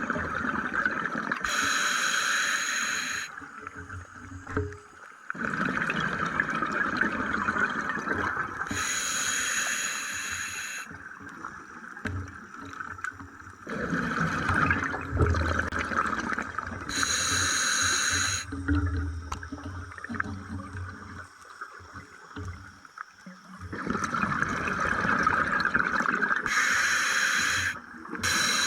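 Scuba diver breathing underwater through an open-circuit regulator, with a slow breath cycle repeating about four times. Each cycle is a long hiss of air ending in a short, bright rush of exhaled bubbles.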